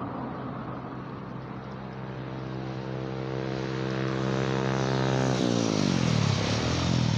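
An engine growing steadily louder as it approaches, with a steady hum. About five and a half seconds in its pitch drops sharply as it passes by, then climbs again near the end.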